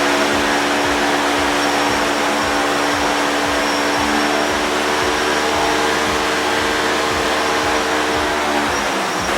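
DJI Phantom 4 Pro hovering with its propellers whining steadily while being blasted by a rushing stream of air from a blower. The pitch of the propellers shifts near the end.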